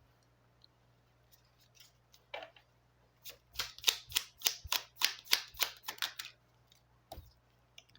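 Baralho cigano (Lenormand) cards being handled on the table: a run of quick, crisp card clicks, about four a second, from about three to six seconds in, with a single click before and one after.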